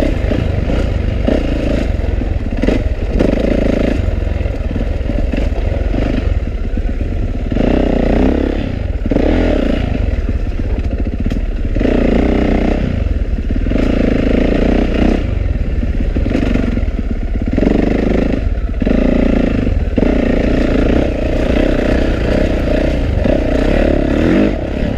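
2012 Yamaha YZ450F's single-cylinder four-stroke engine on a trail ride, revving up and backing off again and again as the throttle is worked, with clatter from the bike over rough ground.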